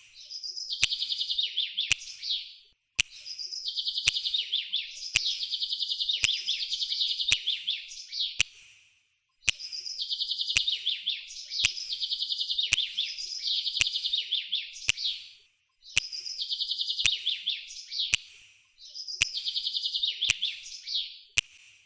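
Small bird chirping in fast, high trilling phrases that repeat, broken by short pauses every few seconds, with sharp clicks about once a second.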